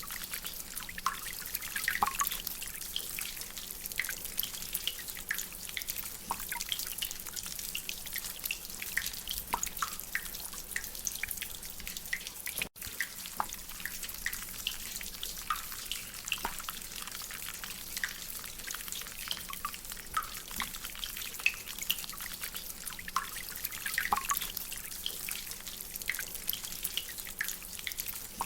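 Rainwater dripping from a drainpipe: irregular, pitched drops plinking over a steady hiss of rain. The sound cuts out for an instant about halfway through.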